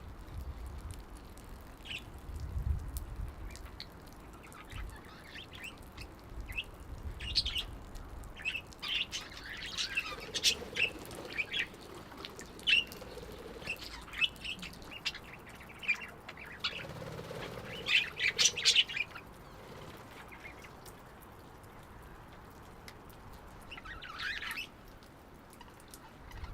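Parakeets calling: many short, shrill squawks, a few at first, then thick and fast through the middle, with a last burst near the end.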